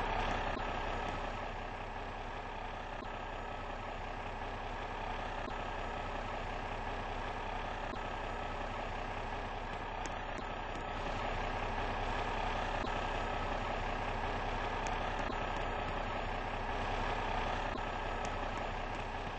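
Fire engine's motor running steadily, with no siren.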